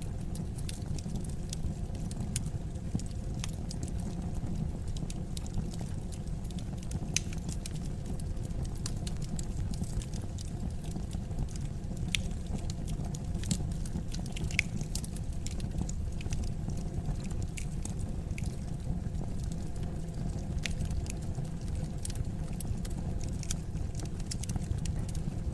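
Wood fire crackling in a fireplace: scattered sharp pops and snaps, irregular and frequent, over a steady low rumble.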